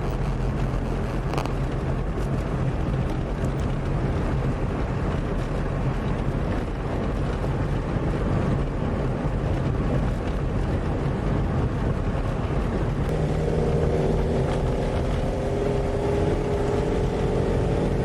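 Safari vehicle's engine running steadily, heard from on board. About thirteen seconds in its note grows stronger and fuller, as when the engine takes more load.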